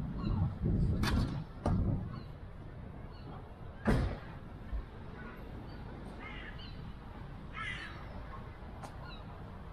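Birds calling twice, about six and a half and seven and a half seconds in, over outdoor background noise. In the first four seconds there are three sharp knocks and a low rumble.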